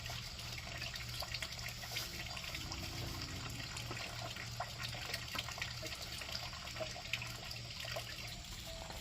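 Water trickling and pattering steadily, with many small drips and splashes.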